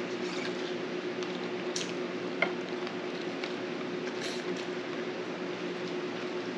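Wet chewing and eating sounds over a steady hiss of heavy rain, with a faint steady hum underneath and a light click about two and a half seconds in.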